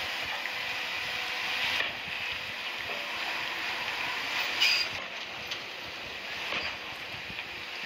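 Bulldozer working, its engine running steadily under the clank of its crawler tracks, with a brief high squeal about halfway through.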